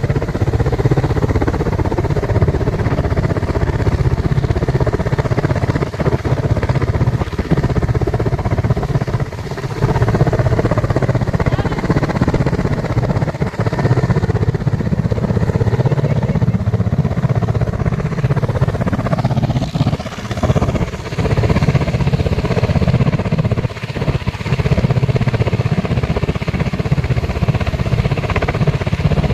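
Army helicopter running, a loud steady rotor and engine noise with a fast low flutter that dips briefly a few times.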